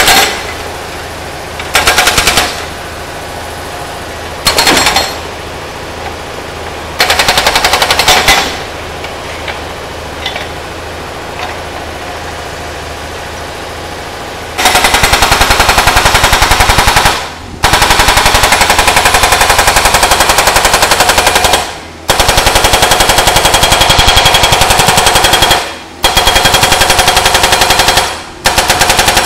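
Hydraulic breaker on a Kubota U50-5S mini excavator hammering an old engine block in rapid blows. There are a few short bursts at first, then longer runs of several seconds each in the second half. The excavator's engine keeps running in the gaps between bursts.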